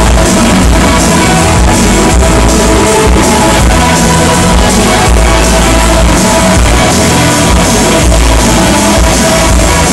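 Live rock band playing loudly at a sound check, the sound dense and continuous with no breaks.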